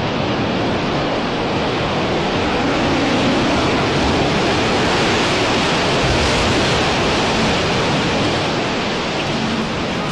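Steady, loud rushing noise with no pitch or rhythm, swelling slightly around the middle, and no distinct bang or boom in it.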